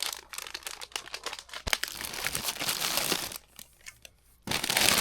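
Crinkling and rustling of something being handled, in two stretches: a long one over the first three and a half seconds and a shorter, louder one near the end.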